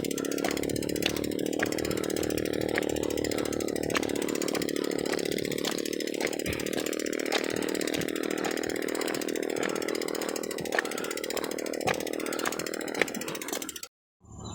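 A small engine running steadily at an even pitch, with scattered sharp clicks over it. It cuts off suddenly near the end, and insects start chirping.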